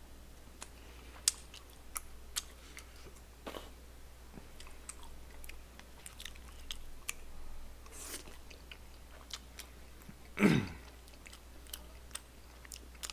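Close-miked chewing of chewy tteokbokki rice cakes, with many small wet mouth clicks and smacks. About ten seconds in comes one short, louder voiced sound from the eater, falling in pitch.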